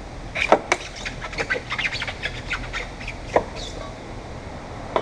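Quick, irregular squeaks and clicks of a hand tool working the roof glass loose from its glue and frame, with a sharper knock about half a second in and another about three and a half seconds in.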